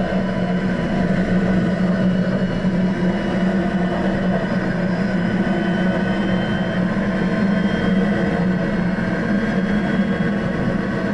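Lotus Exige engine running steadily at speed on track, heard from inside the car, with an even wash of wind and road noise.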